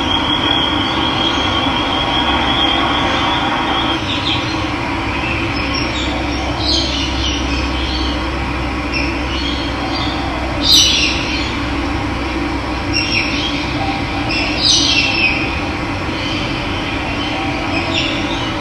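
Steady rush of running water, with birds calling over it: several short, high calls that sweep downward, the loudest about eleven seconds in. A thin, steady high trill runs through the first four seconds.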